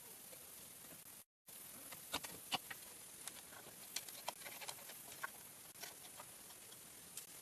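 Scattered, irregular light taps and clicks over a steady hiss, starting about two seconds in after a brief cut to silence.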